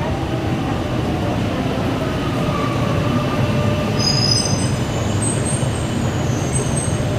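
Singapore MRT electric train running with a steady rumble, heard from a ride on board. About four seconds in, high-pitched wheel squeal joins in.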